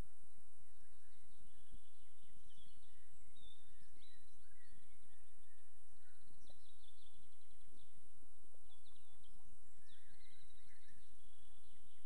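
Several small birds chirping and singing in short, scattered phrases over a steady outdoor hiss and low rumble.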